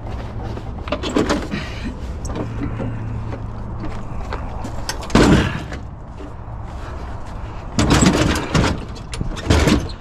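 Loud knocks and clanks of scrap items being handled and moved, four main hits with the loudest about halfway, over a steady low hum.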